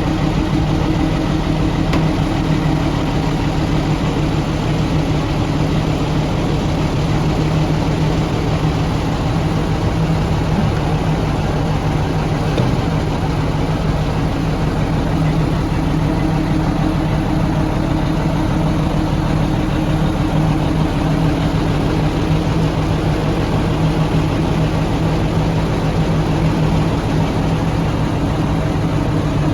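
An engine running steadily at a constant, unchanging speed, its low hum overlaid by a continuous hiss.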